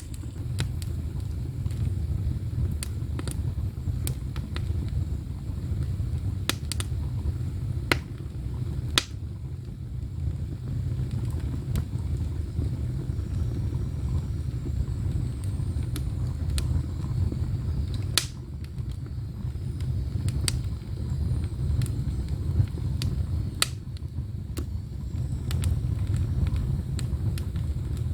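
Split firewood burning in an ondol firebox: a steady low rumble of the fire with sharp crackles and pops scattered through it.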